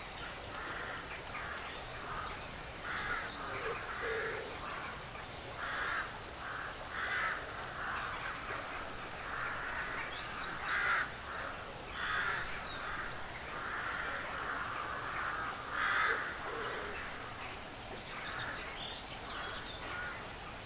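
Woodland ambience: a string of short, harsh calls about once a second, with small birds chirping high above them and a few low coos.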